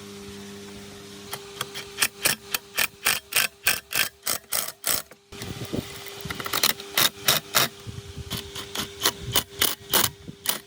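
Repeated hammer blows, about three a second, in two runs with a brief pause just past halfway, over a steady hum.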